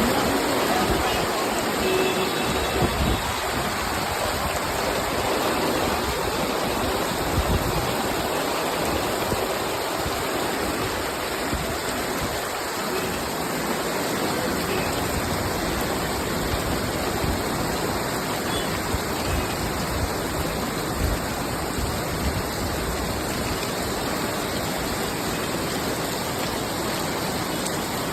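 Heavy monsoon rain falling steadily as an even hiss of water. There are irregular low rumbles in the first half.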